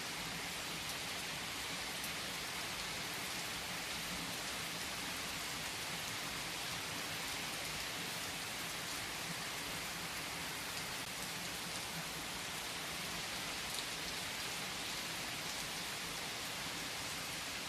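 Steady rain falling, an even hiss of rain with a few faint drop ticks.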